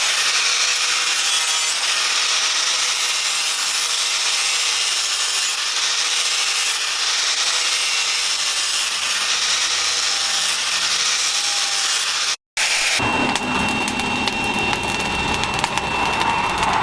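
Continuous abrasive rasping of a tool working a workpiece, steady in level, broken once by a brief drop-out about twelve seconds in, after which a thin steady whine joins the rasping.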